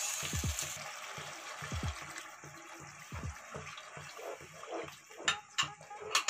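Sauce in a hot wok sizzling and bubbling as freshly added water hits it, dying down over the first two seconds. Then a wooden spatula stirs the thinned gravy, with a few sharp knocks against the wok near the end.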